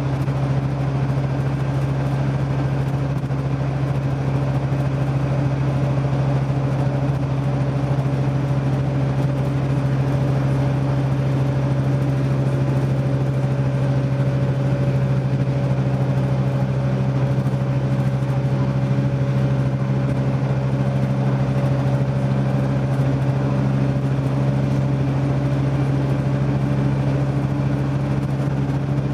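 Scania OmniDekka double-decker bus's diesel engine running steadily at an even, unchanging pitch.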